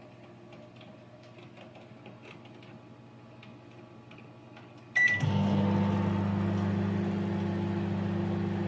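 Microwave oven: a faint low hum with a few small ticks, then about five seconds in a short beep, and the oven starts running with a loud, steady hum.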